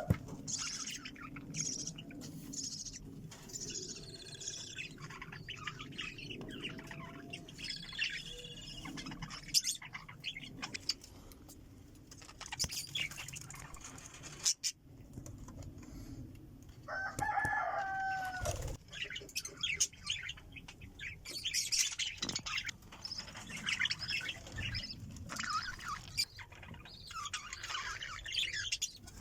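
A flock of budgerigars chirping and chattering in their cages, with bouts of wing flapping. About seventeen seconds in, a louder drawn-out call falls in pitch.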